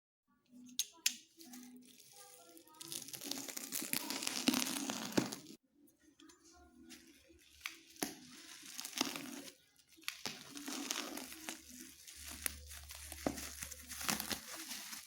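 Parcel packaging being torn open and crinkled by hand, in irregular bursts of rustling and tearing with brief pauses.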